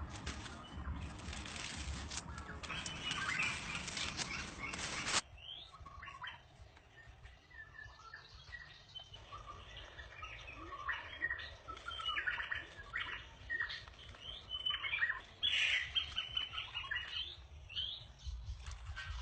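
Small birds chirping in short, scattered calls. Before them, a dense steady hiss cuts off suddenly about five seconds in.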